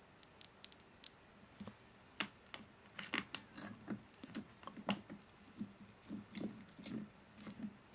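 Quick, irregular sharp clicks and soft taps, growing denser from about two seconds in.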